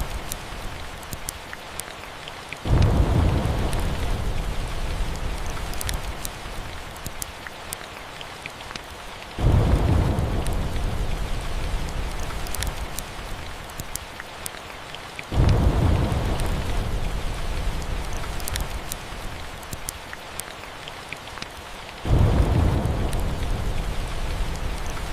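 Steady rain with four rolls of thunder, each starting suddenly and fading away over several seconds, about every six to seven seconds. Sharp crackles of a fireplace fire pop throughout.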